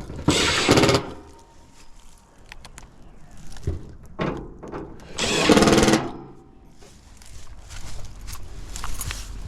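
A cordless power drill/driver running in short bursts, two longer runs of under a second each, about a second in and again around five seconds in, with a brief one between them.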